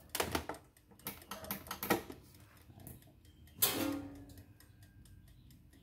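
Knocks and clicks of plastic and metal parts of an air fryer being handled, a few in the first two seconds, then one louder clank about two-thirds in that rings briefly.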